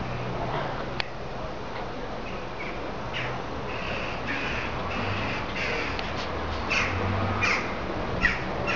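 A bird calling outdoors: a series of short calls, roughly one a second, starting about three seconds in, over a steady low hum. A single sharp click about a second in.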